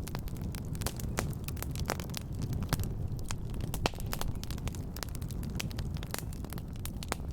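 Wood fire crackling in a fireplace: many sharp, irregular crackles over a steady low rumble of the burning fire.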